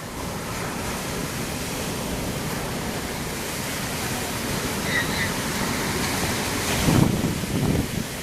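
Sea waves washing on the shore in a steady rushing noise, with wind on the microphone; a louder low rumble comes near the end.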